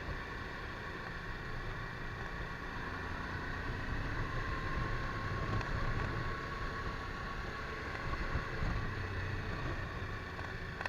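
Suzuki V-Strom 1000 V-twin motorcycle running at a steady cruise, with wind rushing over the microphone. The sound is a little louder in the middle stretch.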